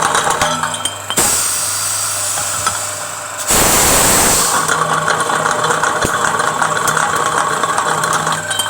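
Pneumatic pipe-cutting machine running with a steady hum. A brief hiss comes about a second in, and a loud rushing burst lasting about a second comes midway, as it works through a cutting cycle.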